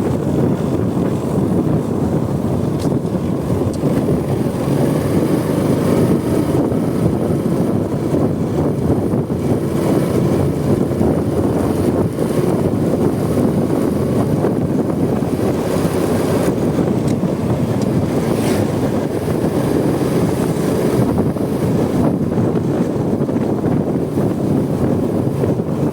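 Steady wind rush on the microphone and road noise from a moving Honda Supra X 125 motorcycle, its small single-cylinder four-stroke engine running underneath.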